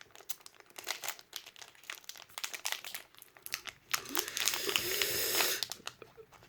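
Foil wrapper of a Pokémon trading card booster pack crinkling in the hands with scattered crackles, then a louder stretch of crinkling and tearing from about four seconds in as the pack is torn open.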